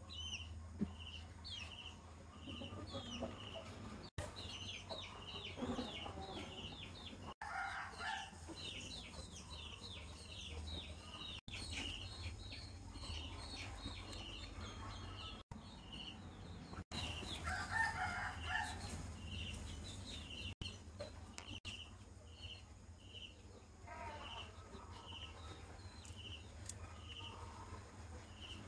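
Outdoor ambience of birds calling. A short high note repeats about twice a second throughout, with small chirps over it and a few louder, lower calls about eight and eighteen seconds in, over a steady low hum.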